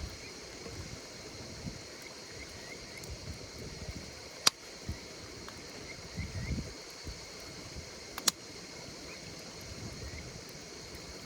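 Campfire burning with a low uneven crackle and two sharp pops, about four and a half and eight seconds in, over a steady chorus of insects chirping.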